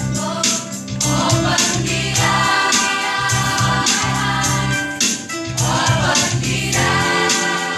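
Choir singing a Christian worship song over instrumental accompaniment with a steady beat.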